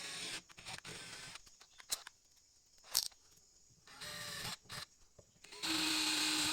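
Short bursts of a power tool grinding or abrading steel, each starting and stopping abruptly, with two sharp clicks in the middle and a louder steady stretch near the end.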